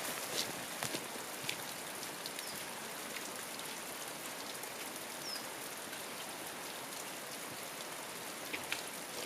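Mountain stream babbling, a steady even rush of water, with a few faint sharp ticks over it.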